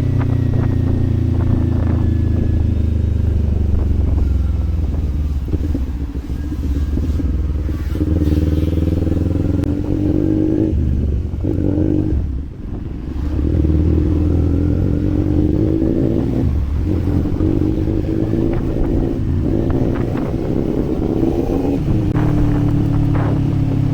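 Kawasaki Z400 parallel-twin engine under way, its pitch repeatedly climbing with throttle and falling back at gear changes. The engine note drops off briefly about twelve seconds in, then picks up again.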